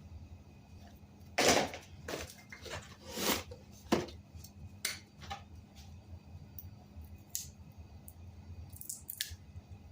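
Irregular clinks, knocks and short scrapes of metal tools and parts being handled, loudest about one and a half seconds in and again around three to four seconds in.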